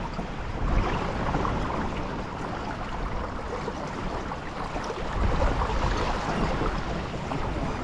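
Strong gusting wind buffeting the microphone, with water rushing and splashing along a small sailboat's hull as it sails in 25–30 knot gusts.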